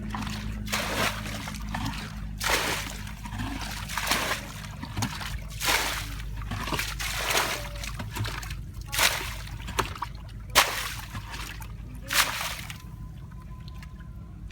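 Shallow water splashing and sloshing again and again, about once a second, as people wade and grab at fish by hand; the splashes stop near the end, leaving a steady low hum.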